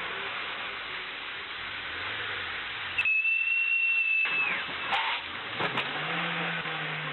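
Steady road and wind noise from a moving car. About three seconds in, a high steady tone lasts about a second and a half, then drops away. A few sharp clicks follow.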